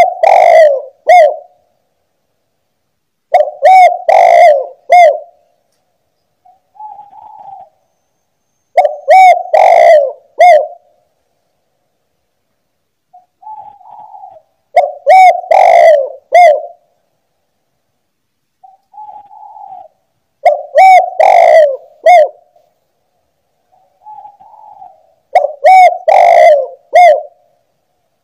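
Spotted dove (tekukur) cooing close and loud: a repeated phrase of three coos, each phrase led by a soft short coo and coming back every five to six seconds, five times.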